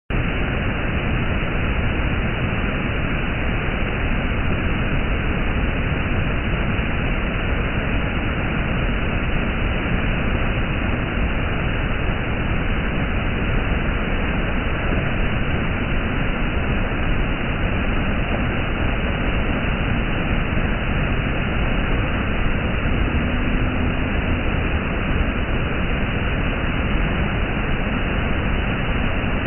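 Steady roar of rushing water from a mountain waterfall.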